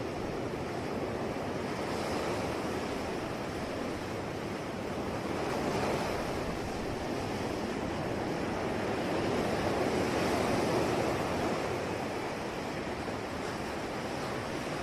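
Ocean waves breaking and washing on the shore, in slow swells that rise and fall every few seconds, with a steady wash of surf between them.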